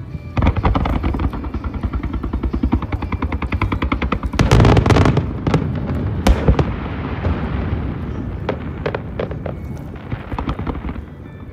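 Aerial fireworks going off in rapid volleys: a dense string of quick pops and crackles, a heavier burst about four and a half seconds in and a sharp bang just after six seconds, then thinning crackle and scattered pops near the end.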